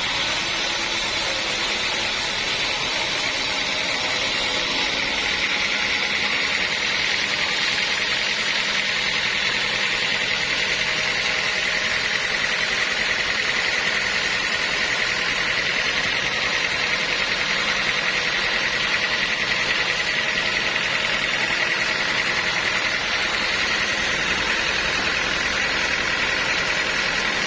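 Sawmill saw running through a large teak log: steady machine noise with a high whine that grows stronger about halfway through.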